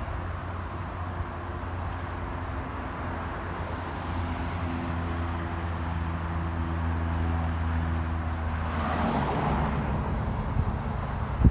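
Diesel locomotive engine drone approaching and growing slowly louder, with a steady low hum. About nine seconds in it swells into a noisy whoosh as it passes and its pitch shifts.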